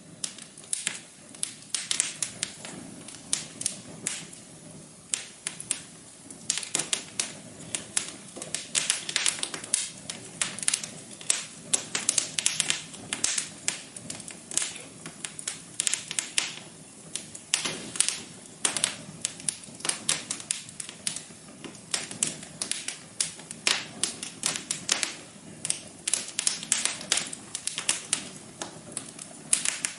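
Wood fire crackling, with dense, irregular sharp pops and snaps over a soft low rush.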